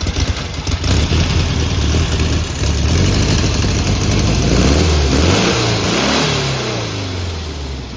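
1971 Volkswagen Beetle's air-cooled flat-four engine running just after starting, revved up and back down a few times in the middle.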